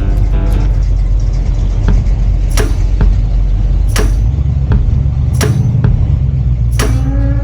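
Steady low rumble of a car engine on the move, with a sharp hit about every second and a half over it.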